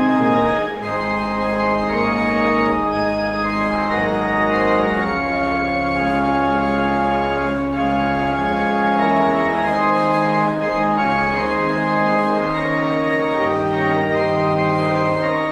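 Organ music: sustained chords held over low bass notes, the harmony changing every second or two.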